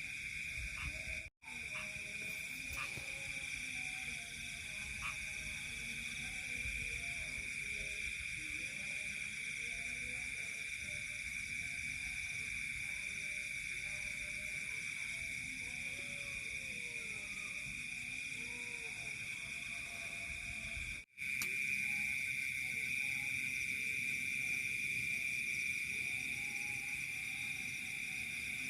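Night-time insect chorus: a steady high-pitched trill that does not let up, with faint lower animal calls underneath. The sound cuts out for an instant twice, about a second in and about two-thirds of the way through.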